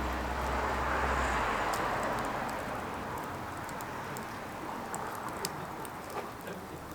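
Burning firewood crackling, with sharp scattered pops and snaps. A rushing noise swells about a second in and fades away over the next couple of seconds.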